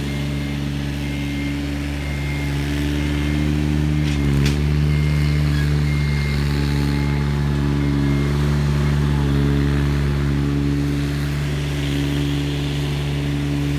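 Engine of the tree service crew's heavy equipment running steadily at a constant speed, its pitch dipping briefly with a knock about four seconds in.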